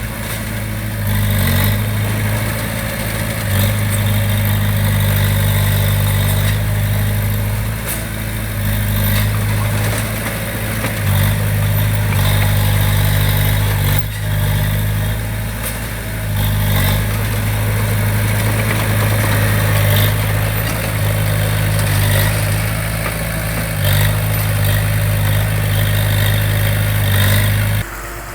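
Heavy construction machine's diesel engine running steadily with a strong low hum and occasional short clanks. The engine sound drops suddenly near the end.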